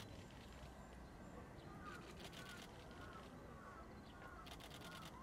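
Faint bird calls over a quiet background: a short chirping note repeated about twice a second from about two seconds in, with a couple of brief rasping bursts.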